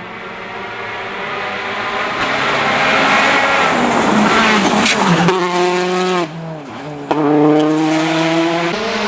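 Rally car at full throttle, its engine note growing louder as it approaches, then held at high revs. About six seconds in the revs fall away briefly and come back sharply about a second later, with another brief dip near the end.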